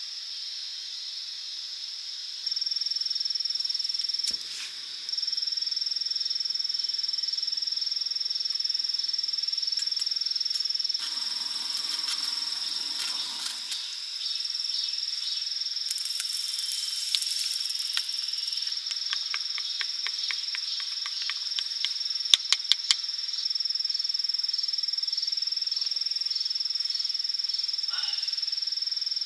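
Steady high-pitched drone of insects singing, with a brief rustling noise about eleven seconds in and a quick run of sharp clicks a little over twenty seconds in.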